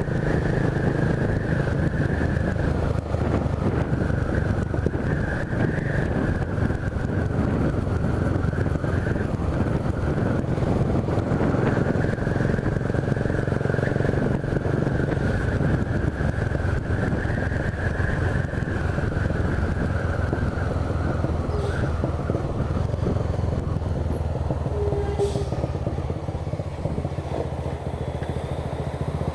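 Honda CB 300 motorcycle's single-cylinder engine running steadily under way, at a fairly even speed.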